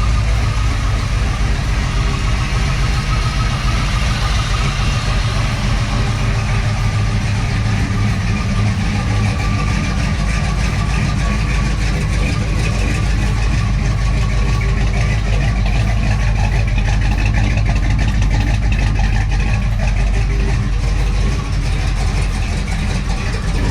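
Chevy Nova's small-block V8, fitted with Holley Sniper fuel injection, idling steadily while it warms up after a cold start.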